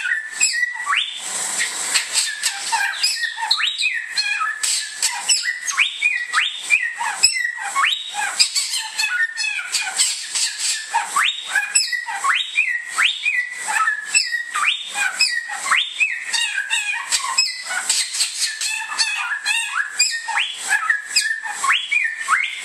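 Bare-throated whistler singing continuously: a rapid, unbroken string of short rising whistled notes several times a second, mixed with sharp chattering clicks.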